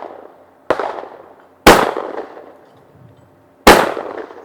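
Shotgun fire at clay targets: a lighter bang about two-thirds of a second in, then two loud shotgun blasts about one and two seconds later, each trailing off in echo.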